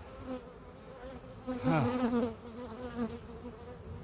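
Honeybees buzzing around an opened hive, a steady hum, with one louder buzz about halfway through that drops in pitch.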